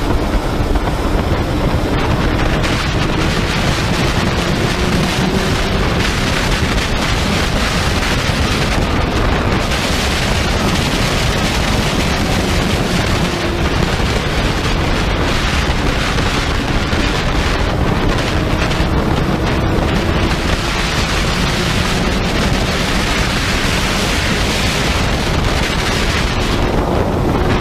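Heavy wind buffeting on the microphone of a moving vehicle, with a faint, steady engine drone underneath that wavers slightly in pitch.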